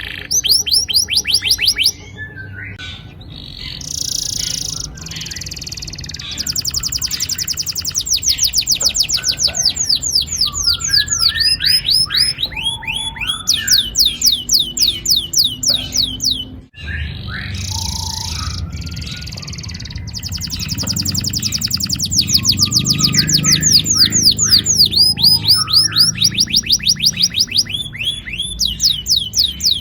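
Domestic canary singing long rolling trills: runs of fast, evenly repeated high notes, changing from one trill to the next with short pauses between phrases. The song breaks off suddenly for a moment a little past the middle, then carries on.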